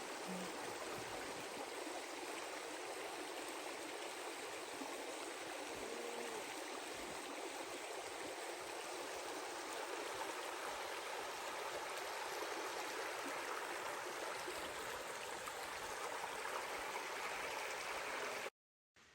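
A creek running steadily over rocks, a constant rushing of flowing water that cuts off suddenly near the end.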